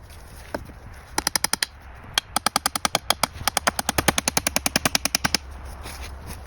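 Rapid train of sharp knocks, about a dozen a second: a short burst about a second in, then a longer run of about three seconds that stops suddenly.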